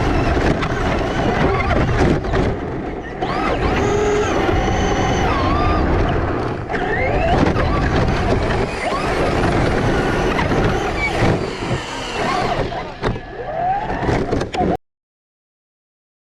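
Radio-controlled car driving: a rushing noise with a whining electric motor that rises and falls in pitch. It cuts off suddenly near the end.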